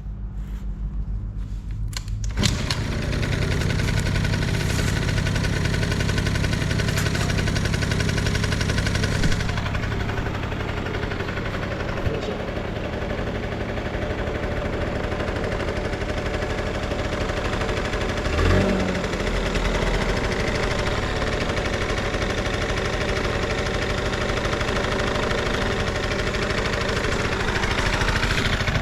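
Yamaha Active 35R engine starting, catching about two seconds in, then running steadily, with no abnormal noises.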